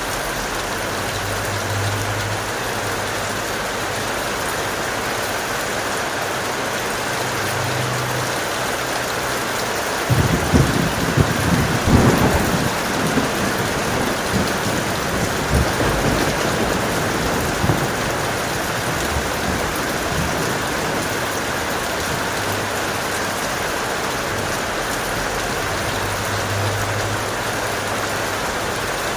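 Steady heavy rain. About a third of the way in, a thunderclap breaks with a sudden crackle, peaks a couple of seconds later, then rumbles away over several seconds.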